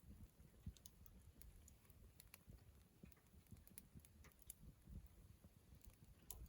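Faint crackling of a wood campfire: scattered small pops and snaps over a low, soft rumble.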